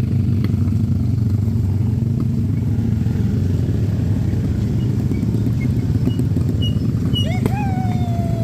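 Motorcycle engine running steadily during a motorbike-taxi ride, a continuous low rumble. About seven seconds in, a high call glides up and then slowly falls.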